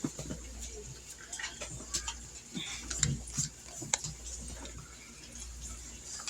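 Floured chicken pieces frying in oil in a skillet: a steady sizzle with irregular crackling pops, and a couple of sharper knocks of a utensil against the pan about three and four seconds in.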